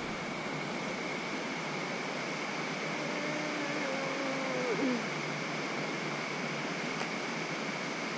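Steady rush of flowing river water with a constant high-pitched whine over it. A faint low hum comes in about three seconds in and slides down in pitch before stopping near five seconds.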